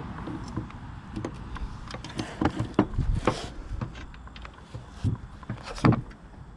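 Irregular knocks and clinks of hand tools and metal parts being handled during mower repair work. A cluster of sharper knocks comes about two to three and a half seconds in, and one loud knock near the end.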